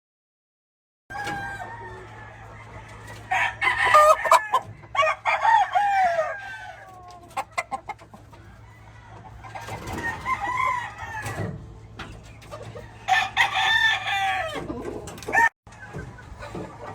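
Gamefowl roosters crowing, about four long crows one after another, with clucking and a steady low hum underneath; the sound begins about a second in.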